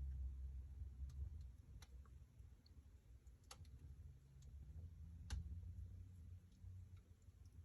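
Wood fire in a fireplace crackling faintly: a few scattered sharp pops and clicks, two of them louder about halfway through, over a low rumble of the burning fire.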